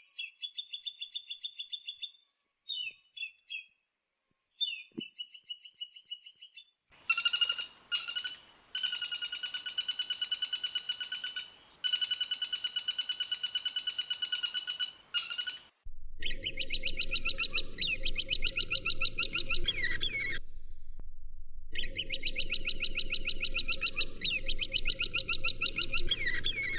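Woodpecker calls: rapid trills of quickly repeated notes, in several recordings spliced one after another. The calls come in short bursts at first, then as a long steady run of rapid notes, then as rattling calls over a low background hum.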